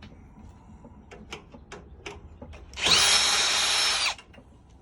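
A power drill-driver backing out a screw: it spins up, runs for just over a second and winds down about three-quarters of the way through. Light clicks and taps of handling come before it.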